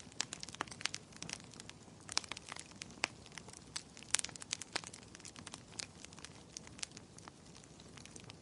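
Wood fire crackling in a fireplace: irregular sharp pops and snaps, several a second, over a soft hiss, with a few louder snaps about 2, 3 and 4 seconds in.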